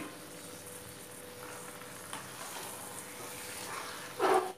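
Minced mutton and liver pieces sizzling in hot, oily masala in a pan as a wooden spatula stirs them in, with a brief louder scrape near the end.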